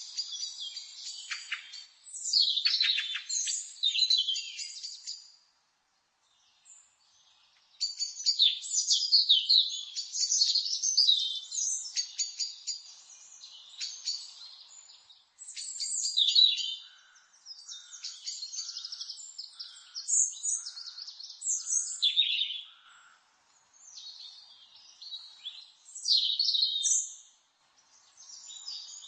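Songbirds singing: rapid, high twittering phrases of chirps and trills broken by short pauses, with a near-silent gap about six seconds in. Midway a lower, evenly spaced series of short notes, about one a second, repeats under the twittering.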